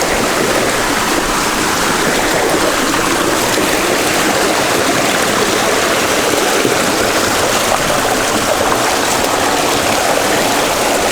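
Rushing water of a mountain stream running over rocks: a loud, steady rush with no breaks.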